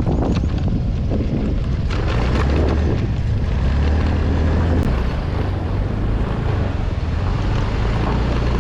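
A vehicle engine running steadily while under way, with wind buffeting the microphone.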